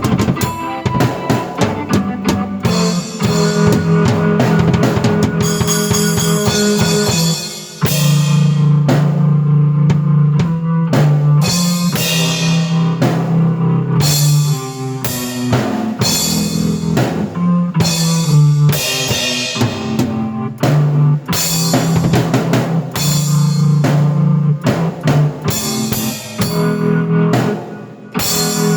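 Drum kit and keyboard played together: a driving beat on kick and snare over held keyboard notes and chords. There is a brief break about seven and a half seconds in, and another near the end.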